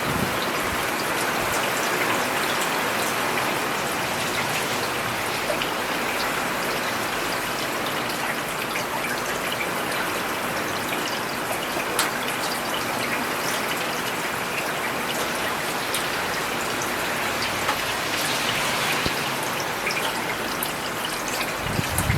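Steady rain falling on a paved road, a constant hiss with scattered ticks of individual drops. A faint low rumble comes in right at the end.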